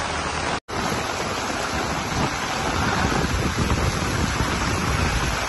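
Heavy rain pouring down onto a waterlogged road: a steady hiss with a low rumble of wind on the microphone. It drops out for an instant just over half a second in.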